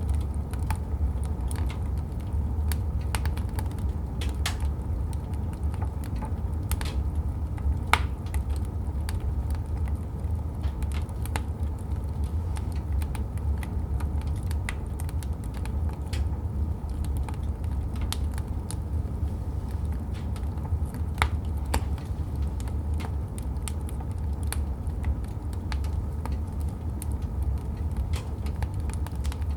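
Wood fire crackling in a fireplace: irregular sharp pops and snaps, a few louder ones, over a steady low rumble of the burning fire.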